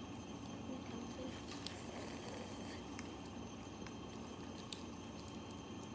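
A few sharp clicks and small cracks of crab claw shell being broken open by hand, the clearest two about three seconds apart, over a steady low hiss.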